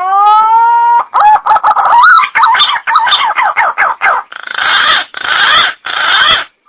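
Green pigeon (punai) calling. It opens with a long whistled note that rises and then holds, runs into a quick series of wavering whistles, and ends with three hoarse, rasping notes.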